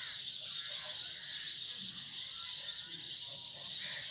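Steady high-pitched insect chorus, an unbroken shrill drone.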